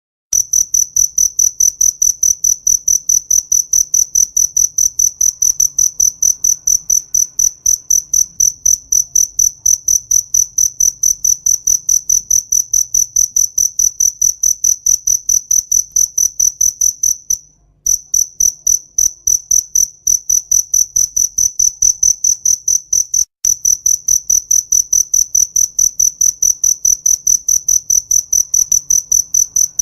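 A cricket chirping: a high, even run of short chirps, about four a second, with a brief pause about seventeen seconds in.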